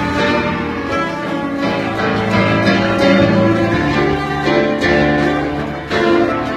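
Cello played live in an improvised duet with a busker, with held bowed notes over a steady accompaniment.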